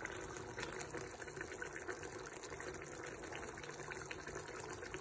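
A pot of food cooking on the stove: a steady, crackling, bubbling hiss.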